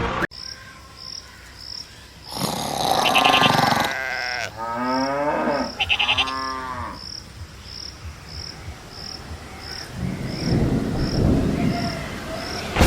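Two drawn-out, moo-like calls with pitch that slides down and back up. They are followed by a low rumble, while faint short high beeps repeat about twice a second.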